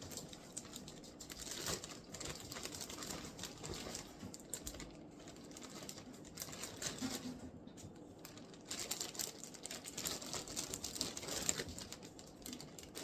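Crinkling and rustling with small clicks as raw chicken pieces are handled and pulled from their plastic packaging.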